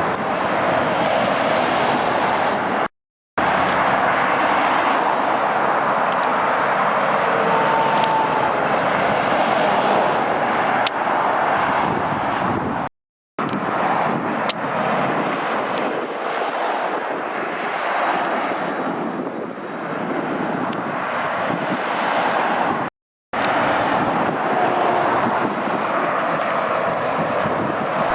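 Steady traffic noise from lorries and cars passing at speed on a dual carriageway, mostly tyre and road noise. It is cut by three brief dead-silent gaps.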